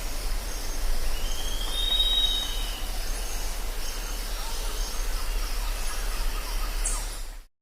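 Jungle ambience of steady insect and bird calls, with one drawn-out whistled call rising and falling about a second and a half in, over a low steady hum. The sound cuts off abruptly near the end.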